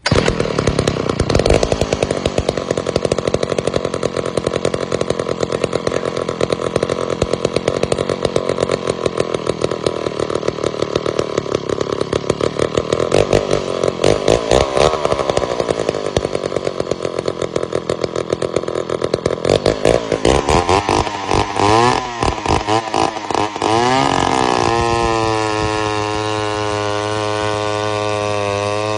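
McCulloch 250 two-stroke chainsaw running hard, its engine speed rising and falling several times. From about 25 seconds in it settles to a steady, even running note.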